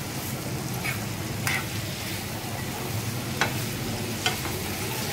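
Diced apples sizzling in melted butter and sugar in a non-stick frying pan as they are cooked soft, stirred with a plastic spatula that scrapes and taps against the pan four or five times.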